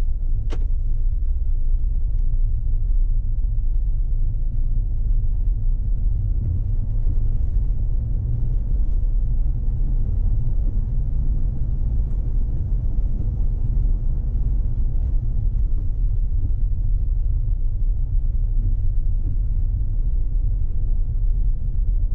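Steady low rumble of a car being driven, with a single sharp click about half a second in.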